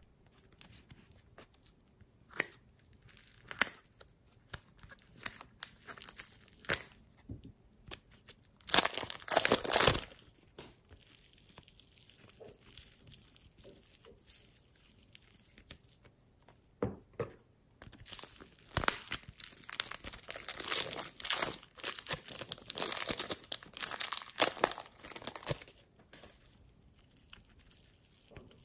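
Hands squeezing, stretching and poking slime, giving irregular sticky crackles and pops. A dense, loud burst comes about nine seconds in, and a busy run of crackling follows from about nineteen to twenty-five seconds.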